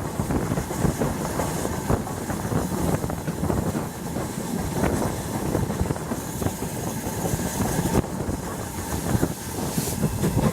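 Heritage train running along the track: a continuous rumble with many short clicks and knocks from the wheels and running gear.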